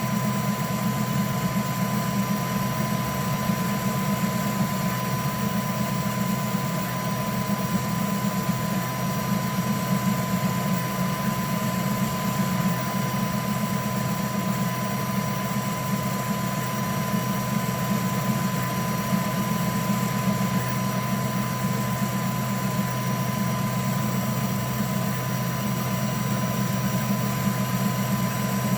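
3D printer running, a steady low hum with a thin constant high whine.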